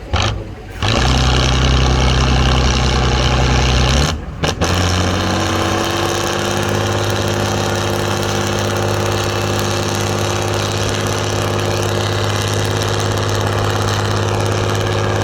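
Heavy truck engine running steadily with a deep, even note. Its sound breaks off briefly twice early on, then settles at a slightly higher, steady pitch.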